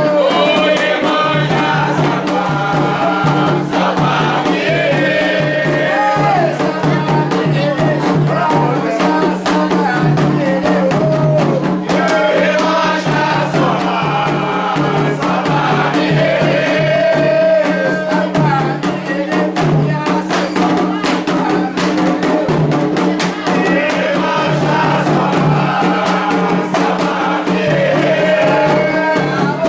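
Candomblé ritual chant sung by a group of voices over continuous percussion with rattles, keeping a steady rhythm.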